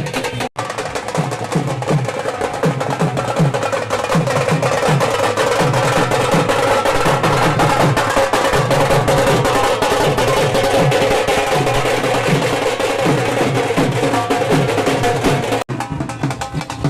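Live procession music: fast, dense drumming with a steady held tone above it. The sound breaks off for an instant about half a second in and again near the end.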